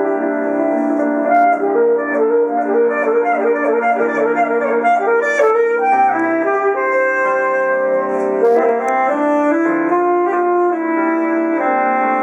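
Alto saxophone playing with piano accompaniment: sustained notes broken by a flurry of fast runs in the middle.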